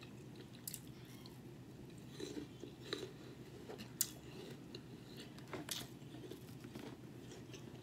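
A person chewing a mouthful of food with the mouth closed, faint, with a scattering of small wet mouth clicks.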